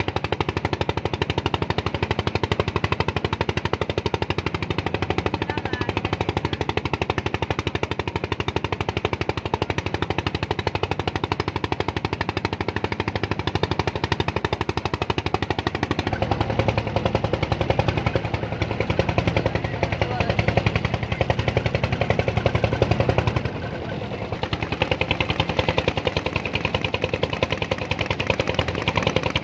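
An engine running with a rapid, even chugging beat. Its low end grows heavier about halfway through, and it eases briefly near the end before picking up again.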